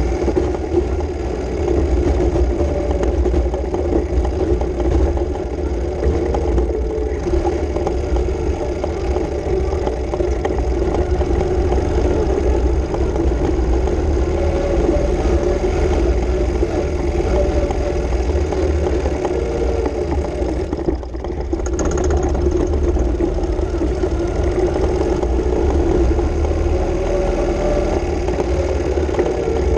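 Ural M67 motorcycle's flat-twin engine running steadily under way on a dirt track, with wind rumble on the microphone. The engine eases off briefly about two thirds of the way through, then picks up again.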